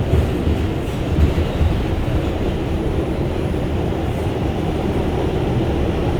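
R142 subway train running at speed, heard from aboard: a steady rumble of wheels on rail with a few brief knocks about a second in.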